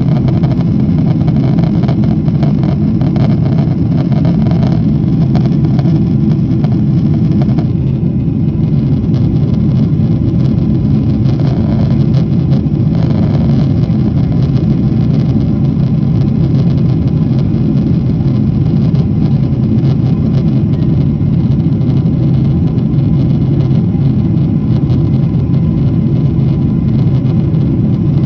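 Steady, loud, low engine rumble that does not change.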